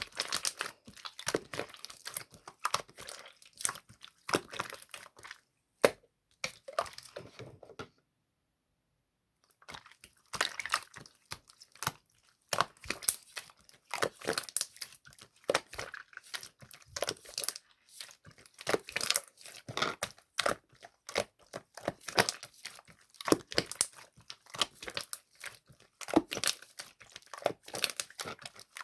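Slime being played with by hand: dense, irregular crackling and popping clicks as it is squeezed, pressed and stretched, broken by a silent gap of under two seconds about eight seconds in.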